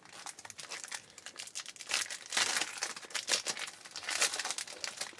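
A trading-card pack wrapper being torn open and crinkled, with cards handled; crackling rustle that swells about two seconds in and again near four seconds.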